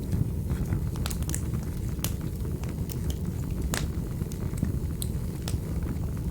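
Wood fire burning with a steady low rumble and irregular sharp crackles and pops from the burning logs.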